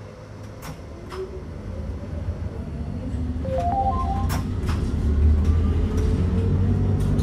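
Dolderbahn rack railcar running along the track, a low rumble that grows steadily louder, with a few sharp clicks over it.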